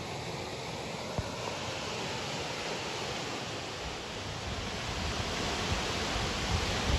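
A waterfall rushing steadily, getting a little louder in the second half, with low wind rumble on the microphone toward the end.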